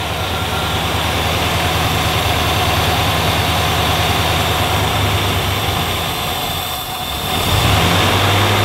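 Rover V8 idling, fed by twin SU carburettors, while a carburettor's lifting-pin plunger is pushed up as a mixture check. The idle dips briefly about seven seconds in, then picks up again a little louder; the engine is still running a bit lean.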